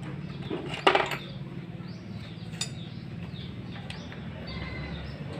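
Metal tools and engine parts clinking and knocking while a small water-pump engine with a broken connecting rod is taken apart, with one louder metallic clank about a second in. A steady low hum runs underneath.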